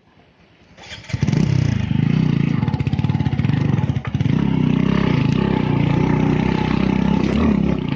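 A motorcycle engine starts up about a second in and keeps running, its pitch rising and falling with the throttle.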